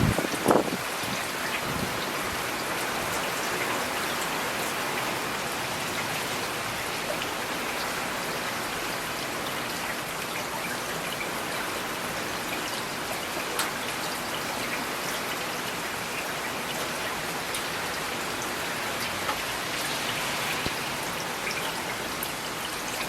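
Steady rain falling and pattering on surfaces, with scattered individual drops ticking through it. One louder short thud stands out about half a second in.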